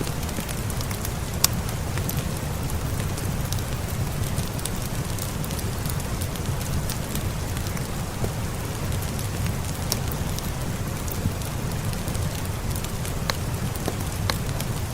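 Steady rain with a deep, even rush, and a crackling wood fire: scattered sharp pops and clicks over the rain. The sharpest pop comes about a second and a half in, and a few more come near the end.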